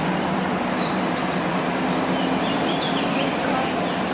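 Steady outdoor background noise with a low hum, and faint short bird chirps, most of them in the second half.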